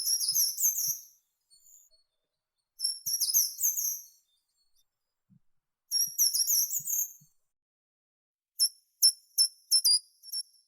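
Small songbird singing: three short, high, rapid phrases a few seconds apart, then a run of separate high notes about three a second near the end.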